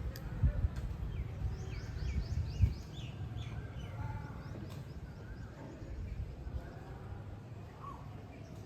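Birds singing outdoors: a quick run of about eight short, falling high notes in the first few seconds, with scattered lower chirps and warbles throughout. Underneath runs a steady low rumble, with two dull thumps in the first three seconds.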